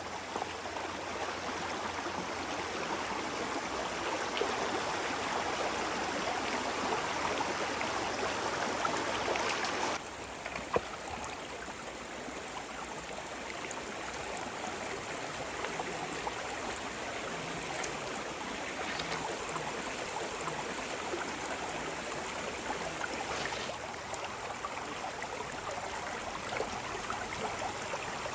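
Water running in a stream, a steady rushing that changes abruptly in level and tone about ten seconds in and again late on, with one sharp knock just after the first change.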